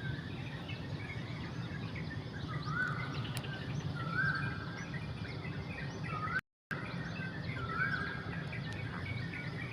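Several wild birds chirping and calling together, one of them repeating a short call that rises and then holds, about three times. A steady low hum lies underneath, and the sound cuts out completely for a moment a little past the middle.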